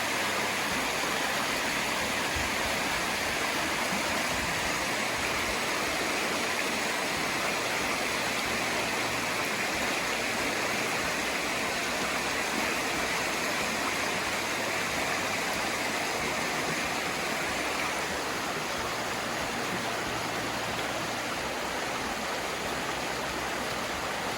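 Rushing water of a stream, a steady noise that eases slightly near the end.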